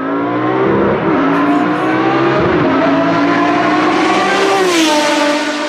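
Car engine revving, its pitch dipping about a second in, then climbing steadily before gliding down and cutting off abruptly near the end.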